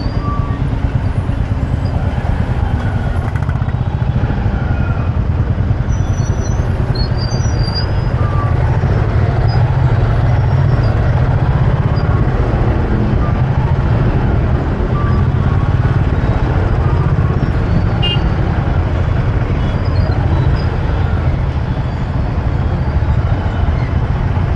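Motorbike riding through city traffic: steady engine and road noise mixed with a heavy low rumble of wind on the microphone. A few faint, brief high tones come from the surrounding traffic.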